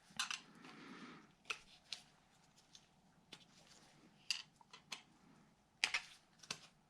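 Scattered faint metallic clicks and short scrapes of pliers gripping and working a valve lifter in its bore in a 1950 Cadillac 331 V8 block, the lifter not yet coming free.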